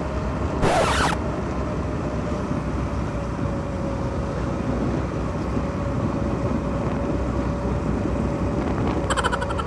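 A vehicle on the move: steady engine and road rumble with a faint steady hum. A short hiss about a second in, and a brief rapid clicking near the end.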